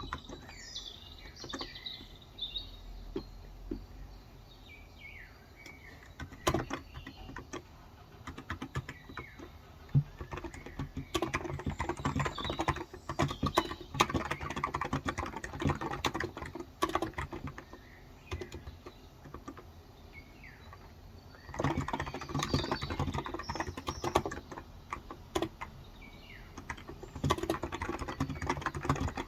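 Typing on a Cox Endeavor electrostatic-capacitive (contactless) 35 g tenkeyless keyboard: scattered keystrokes at first, then several fast runs of typing. Birds chirp in the background, mostly in the first few seconds.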